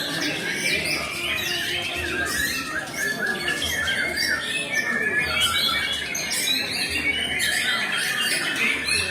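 White-rumped shama singing a fast, unbroken stream of varied whistles and chattering notes, rising and falling in pitch.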